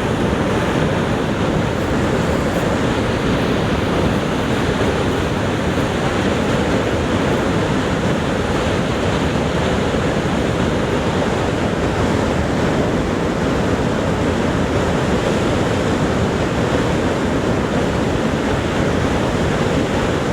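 Niagara Falls: the steady, unbroken rush of a huge volume of falling water, a deep, even noise with no separate splashes or breaks.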